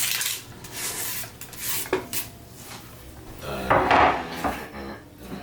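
Kitchen handling sounds: rubbing and scraping with a few light knocks, the loudest a little past halfway.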